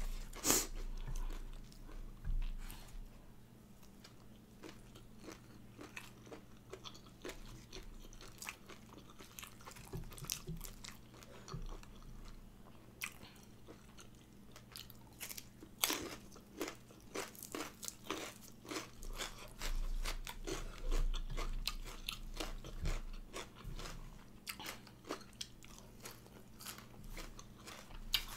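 Biting and chewing raw shrimp salad and a fresh radish, with many sharp crunches, thickest about halfway through.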